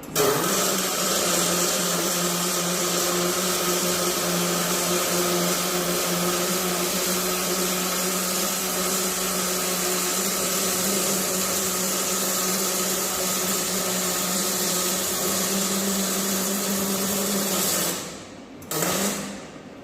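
A power tool working steel on a vehicle chassis frame runs steadily for about 18 seconds, a steady hiss with a low hum through it. It stops, then runs again in one short burst near the end.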